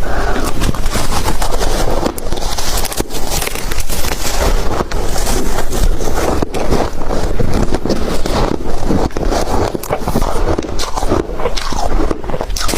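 Ice being bitten and chewed, heard as a dense run of loud, irregular crunches and cracks.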